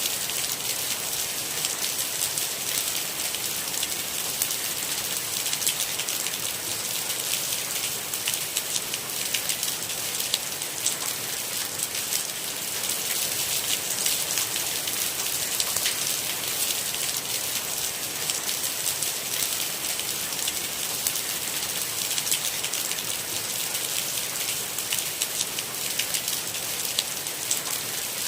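Steady rain falling: an even hiss with dense, fine patter of drops, with no thunder.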